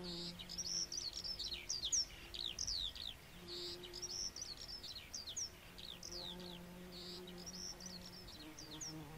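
Birds chirping: a busy string of short, high, falling chirps, several a second, with a faint low hum coming and going underneath.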